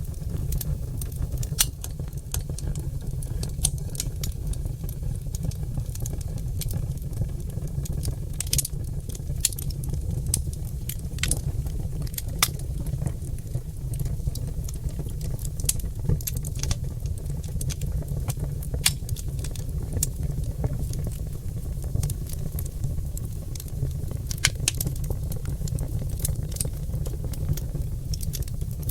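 Oak logs burning in a fireplace, crackling with frequent irregular sharp pops over a steady low rumble of the fire.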